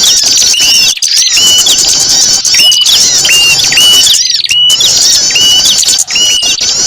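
A dense chorus of many small birds, high-pitched chirps and twitters layered over a short whistled note that repeats over and over, each note ending in a sharp hook. This is a small-bird lure call mix, used to draw small birds down.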